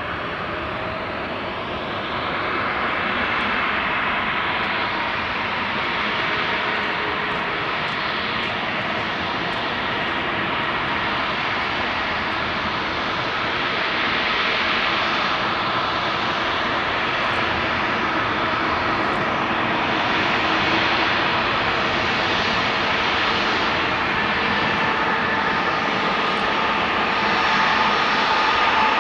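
Airbus A320neo's twin CFM LEAP-1A turbofan jet engines running: a continuous jet rush with faint whining tones, getting a little louder near the end.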